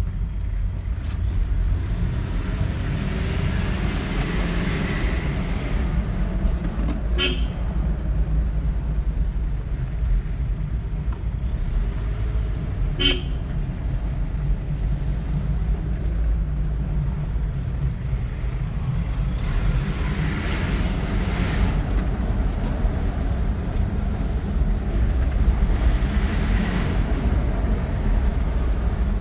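Vehicle traffic on a road: a steady low road rumble, with other vehicles passing by three times in rising-then-falling swells. Two short sharp sounds come about seven and thirteen seconds in.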